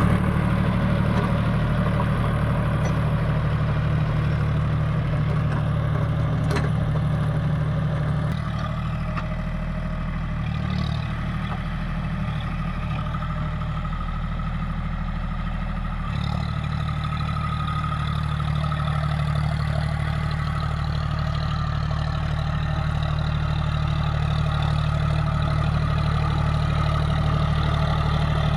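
John Deere 5050D tractor's three-cylinder diesel engine running steadily. Its note shifts about eight seconds in and changes again about halfway through.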